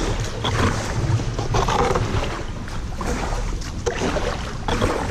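Canoe paddle working through shallow river water, with splashing and sloshing that comes in irregular washes every second or so over a steady low rumble.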